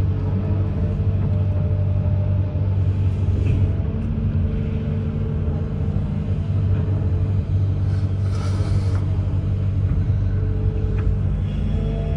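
Amphibious excavator's diesel engine running steadily, with a brief hiss about eight seconds in.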